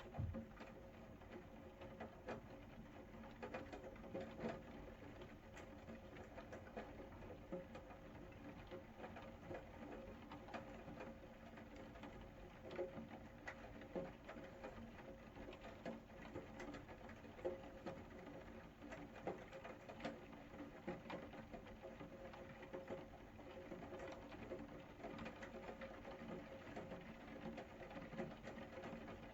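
Rain falling and dripping: a soft, steady patter with many scattered single drops tapping, over a faint steady low hum.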